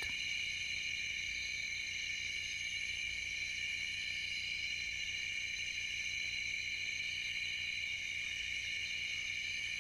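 Night-time rainforest insect chorus: a steady, high-pitched drone of many insects, unbroken and unchanging.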